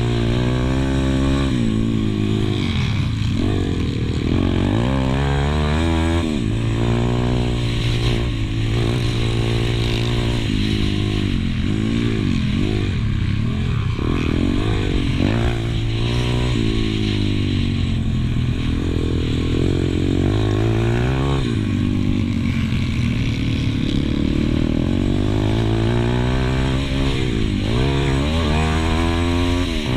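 Pit bike engine heard on board under race riding, its revs climbing and dropping every few seconds as the rider accelerates and backs off.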